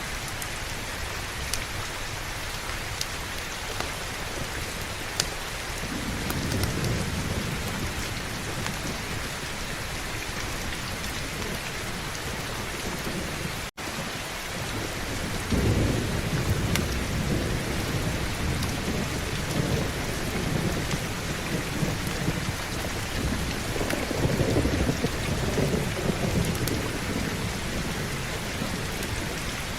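Steady heavy rain with rolling thunder rumbling low several times, the strongest swells in the second half. The sound cuts out for an instant about halfway through.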